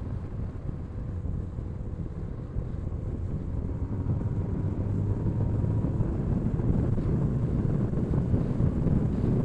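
Motorcycle riding, heard through an action camera's microphone: wind buffeting the mic over a low engine drone. It gets louder about four seconds in.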